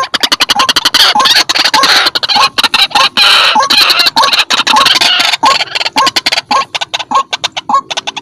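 White-breasted waterhen calling loudly: a fast run of harsh repeated notes, with a hooked note recurring about twice a second. The calls build to a dense chatter in the middle and thin out toward the end.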